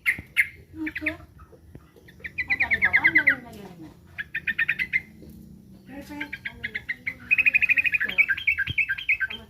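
Sooty-headed bulbul (trucukan) giving fast chattering alarm calls: four quick trains of sharp repeated notes, the longest near the end. The bird is agitated, calling as if threatened.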